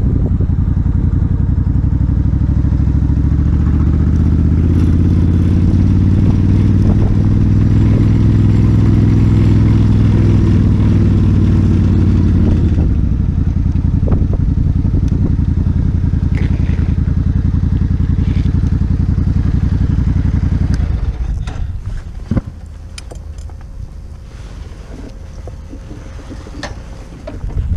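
Suzuki Intruder 1400 V-twin motorcycle engine running under way, its pitch rising as it pulls and then shifting about halfway through. About three quarters of the way in, the engine falls away to a much quieter low rumble with a few sharp clicks.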